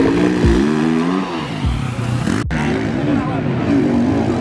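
Motocross bike engines revving, pitch rising and falling repeatedly as the throttle is worked. The sound drops out briefly about halfway through.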